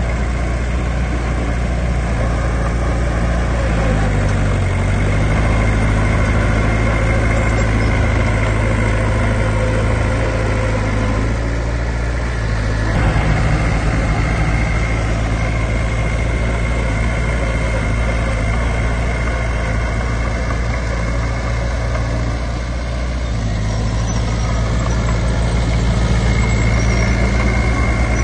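Heavy diesel engine of earthmoving machinery running steadily. Its pitch dips briefly about four seconds in and changes again around halfway and near the end.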